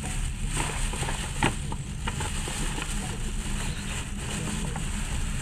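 Passenger train running, heard from inside the carriage as a steady low rumble, with one sharp knock about one and a half seconds in.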